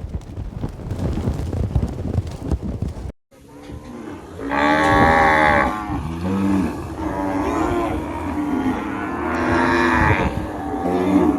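Cattle mooing: several long, loud calls, some overlapping, begin about four seconds in. Before them is a stretch of low rumbling noise that breaks off suddenly.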